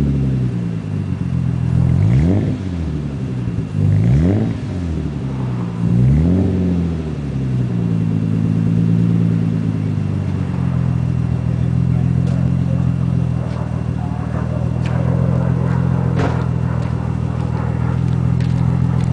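1990 Nissan 300ZX 2+2's V6 engine through an aftermarket DTM twin-tip exhaust, revved in about four quick blips roughly two seconds apart, each climbing and falling back. It then settles into a steady idle for the rest, with a few faint ticks in the later part.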